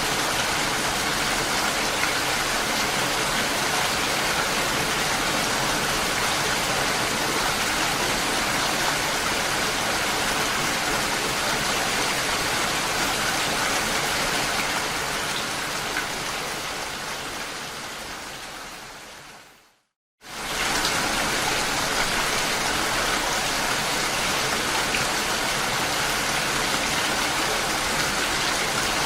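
Steady rain falling as a dense, even hiss. About two-thirds of the way through it fades out to a moment of silence, then cuts back in abruptly at full level.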